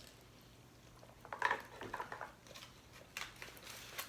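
Close-up eating sounds: chewing, with scattered small clicks and taps from food and utensils, the clearest about a second and a half in and again around three seconds.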